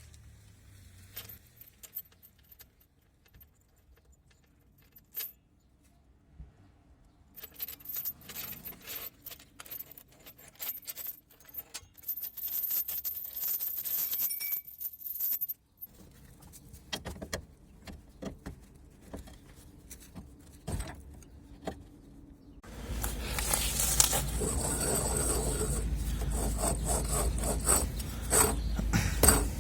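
Metal hand tools and small steel parts clinking, jangling and scraping while the front suspension is worked on. In the last several seconds a louder, steady rattling noise starts abruptly.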